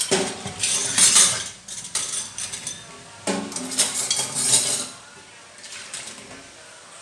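Dishes and cutlery clattering and clinking in two busy bursts of a couple of seconds each, then a few lighter clinks near the end.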